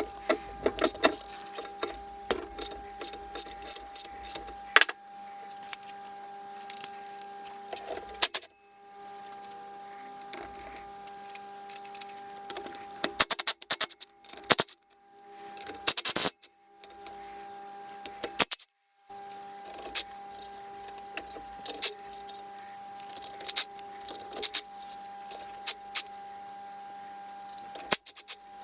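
Metal tools and engine parts clicking and clinking in quick irregular runs while a motorcycle engine is taken apart on the bench, over a steady hum.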